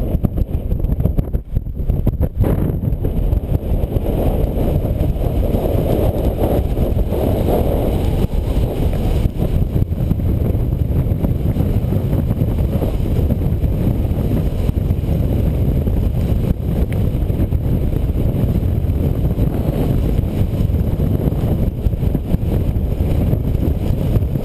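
Wind buffeting the microphone: a loud, steady low rumble that dips briefly about two seconds in.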